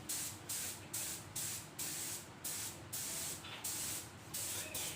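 Paint being sprayed in short hissing bursts, about two a second, as a wheel rim is painted.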